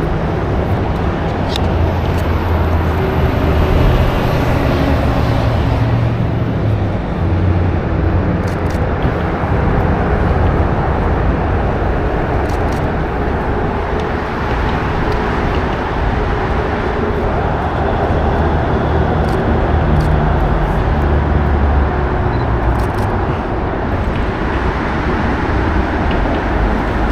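Outdoor city traffic noise: a steady rumble with uneven low-end surges.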